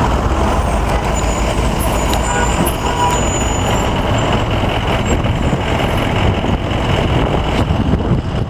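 A truck's engine running amid city street traffic: a steady, loud, noisy rumble.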